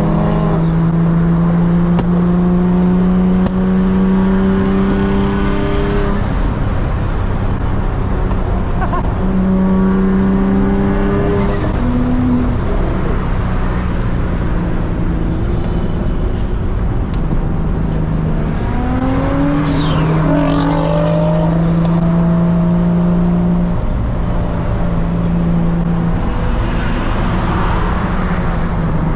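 Big-turbo Nissan 350Z's VQ35HR V6 under way, held at steady revs for several seconds at a time, with short rises in pitch as it is pushed harder about six, eleven and twenty seconds in.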